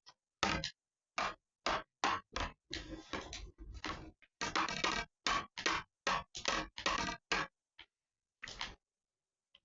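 A person's voice in short broken bursts, a fraction of a second each, cutting off to silence between them.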